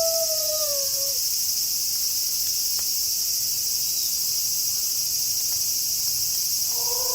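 Steady high-pitched chorus of night crickets. A wolf's howl slides down in pitch and fades out about a second in, and another howl begins near the end.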